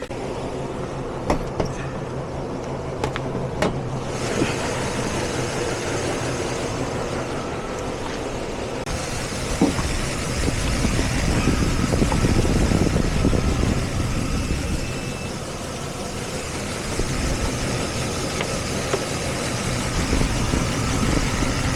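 Diesel truck engine idling steadily, growing louder for a few seconds in the middle, with a few sharp metallic clicks in the first seconds.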